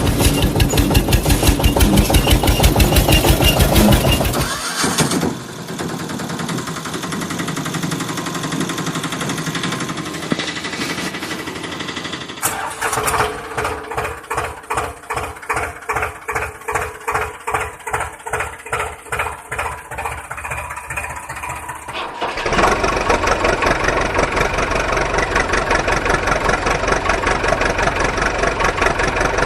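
Heavy diesel vehicle engines running in several stretches, changing abruptly: a loud fast chugging at first, then a quieter steady running, then a slower pulsing chug of about two beats a second, and a loud steady running near the end.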